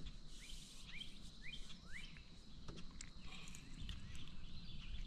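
A bird calling faintly: four short rising chirps about half a second apart in the first two seconds, over quiet outdoor background with a few faint ticks.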